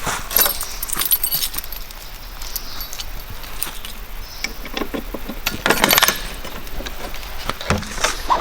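Small metal items clinking and jangling as they are handled, in clusters of sharp clicks at the start and again around six seconds in.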